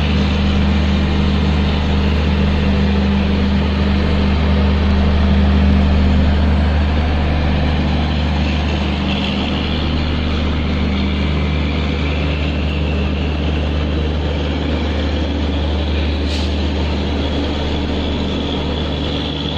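A train running steadily: a continuous rumble with a strong low hum.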